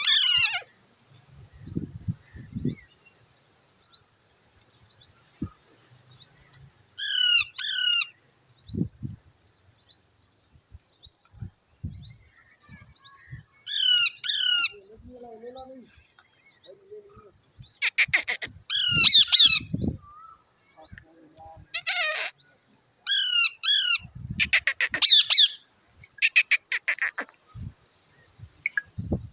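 Parrots giving harsh, falling screeches in groups of two or three every few seconds, more often in the second half, over a steady high-pitched insect drone.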